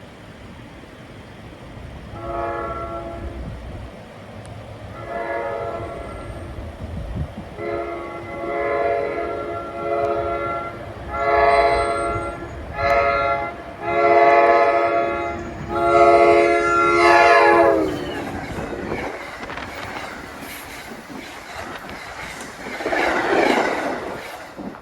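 NJ Transit ALP-46 electric locomotive sounding its horn in a series of blasts as it approaches, the last blast held and dropping in pitch as it passes. Then the rush and rattle of the train going by, swelling and fading near the end.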